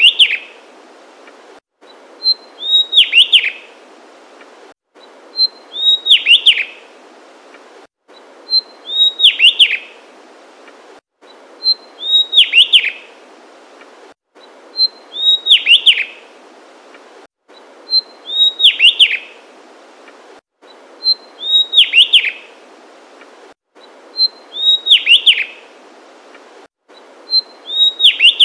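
Javanese tesia singing the same short phrase over and over, about every three seconds: a single high note followed by a quick tumble of sweeping notes.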